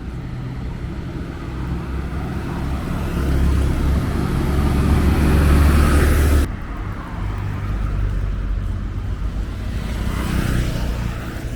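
Street traffic: a motor vehicle passing close, growing louder for several seconds until it cuts off suddenly a little past halfway, then another vehicle swelling past near the end.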